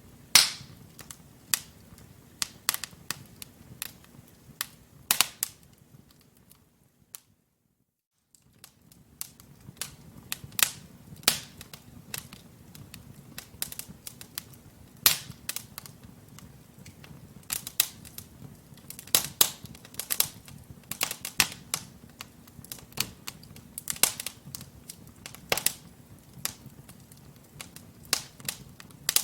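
Wood logs burning in a fireplace, crackling with irregular sharp pops and snaps over a soft, low, steady rush of flame. The sound cuts out completely for about a second roughly seven seconds in, then resumes.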